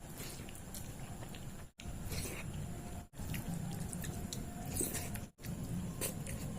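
Close-miked ASMR eating sounds: wet chewing and mouth clicks, with small smacking sounds scattered throughout. The sound drops out abruptly for a moment three times.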